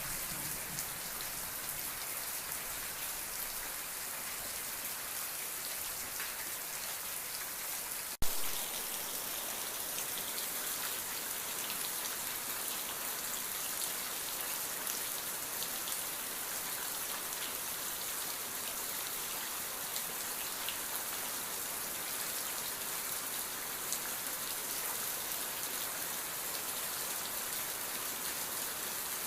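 Steady rain falling in an even hiss of drops. A single sharp click cuts through it about eight seconds in.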